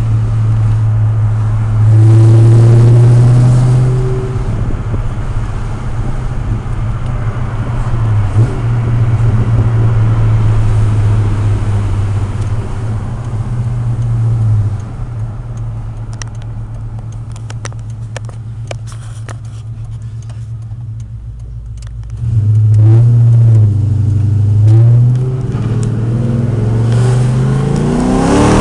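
2003 Ford Mustang GT's 4.6-litre V8 running through long-tube headers, an off-road X-pipe and a Pypes Violator cat-back exhaust: a deep, steady idle with a loud rev about two seconds in. The engine settles quieter through the middle, then is blipped up and down a few times near the end.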